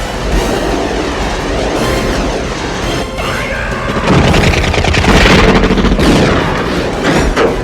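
Loud dramatic film score mixed with heavy booming crash effects, growing louder about four seconds in.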